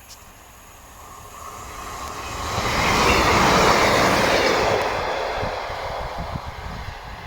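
Train passing close by: a rush of rail noise that builds over the first couple of seconds, is loudest about three to four seconds in, then fades, leaving a low wheel rumble.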